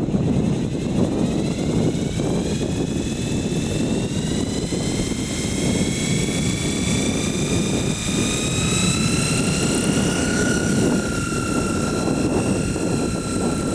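Large electric RC coaxial helicopter spooling up: the motor and rotor whine climbs steadily in pitch for about ten seconds as the rotors come up toward a 2,000 RPM head speed, then holds steady. Heavy wind noise on the microphone underneath.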